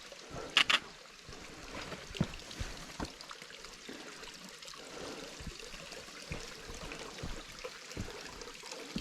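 Low-flowing waterfall cascade trickling and splashing into a pool below, a steady wash of running water. Two sharp clicks sound just over half a second in.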